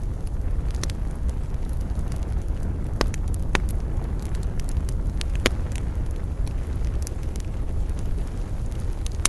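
Wood campfire crackling, with scattered small snaps and a few sharper pops, over a steady low rumble.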